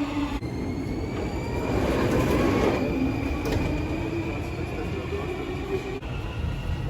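Ride inside a moving metro train: electric traction motors whining in several thin steady tones that shift slightly in pitch, over the rumble of the wheels on the track, with a swell of noise about two seconds in.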